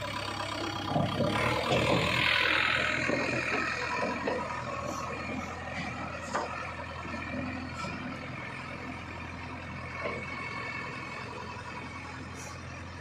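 Heavy diesel machinery running, with a steady low engine note. About a second in it grows louder for a couple of seconds, with a harsh higher-pitched sound, then eases off.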